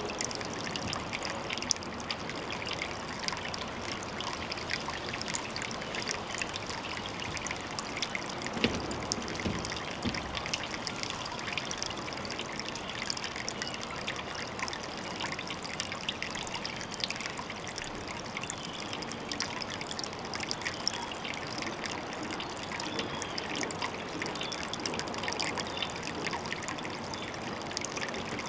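Water trickling and splashing steadily at a pond, a continuous run of small drips and splashes, with a brief low rumble about nine seconds in.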